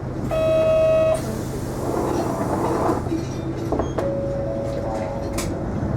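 Isuzu Erga non-step city bus running, heard from inside the cabin: a steady low drone with road noise. A loud, held electronic tone sounds for about a second near the start, and a fainter one about four seconds in.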